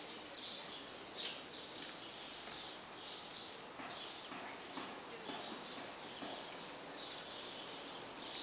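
Small birds chirping over and over: short high notes about twice a second. A brief sharper click about a second in.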